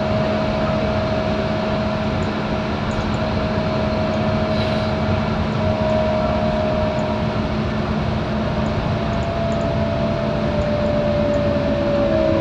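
Scania K230UB bus's nine-litre five-cylinder diesel running under way, heard on board. A steady engine drone carries a clear whine that drifts slowly lower in pitch.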